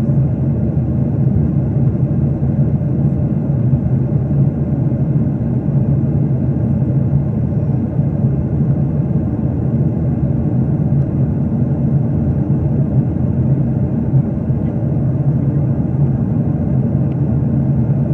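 Steady low rumble of jet airliner cabin noise, the engines and airflow heard from inside the cabin.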